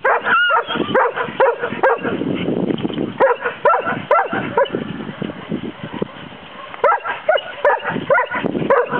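Golden retrievers play-fighting: quick runs of short barks and yips, easing off for a moment around the middle and picking up again near the end.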